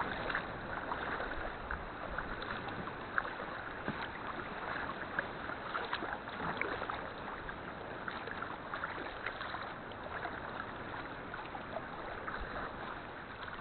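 Sea water splashing and trickling around a kayak being paddled, with many small splashes and drips throughout.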